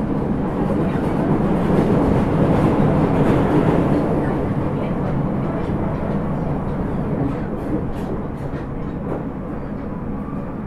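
Onboard running sound of an Osaka Metro 30000-series subway train with Hitachi SiC-VVVF control: a steady rumble of wheels and running gear that grows louder over the first few seconds and then gradually eases. Light clicks of the wheels over the track come in the second half.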